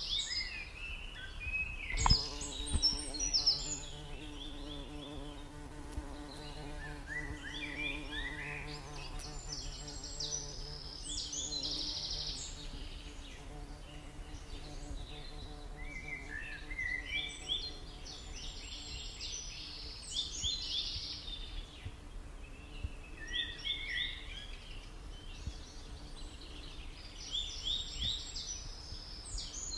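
A songbird sings short phrases of quick chirps, repeated every few seconds. Underneath is a steady low hum that starts with a click about two seconds in.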